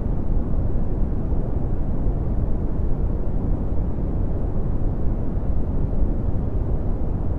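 Red (Brownian) noise: a steady, deep, rumbling hiss with most of its power low down and little treble.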